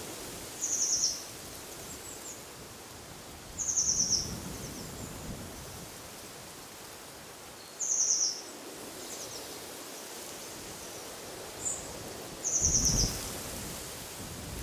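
A songbird repeating a short, rapid trill four times, about every four seconds, with one brief higher chirp between the last two, over a steady hiss of wind and rustling leaves.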